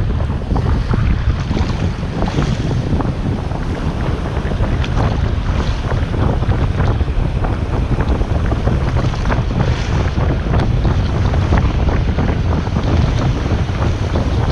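Steady wind noise on the microphone, with waves washing on the shore underneath.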